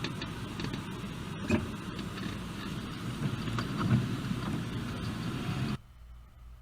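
Steady road and engine noise of a car as recorded by a dashcam, with a few faint clicks, cutting off suddenly near the end.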